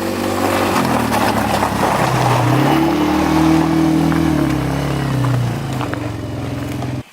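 Quad (ATV) engine running under throttle: it revs up about two and a half seconds in, holds higher for a couple of seconds, then eases back down. It cuts off just before the end.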